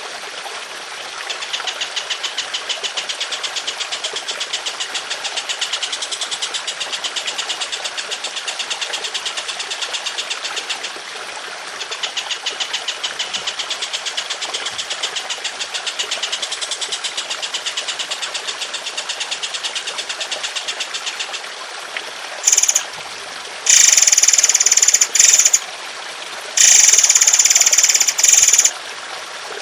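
A songbird sings long, fast, rattling trills over a steady trickle of water, pausing briefly twice. In the last seven seconds come three loud, shrill bursts of song.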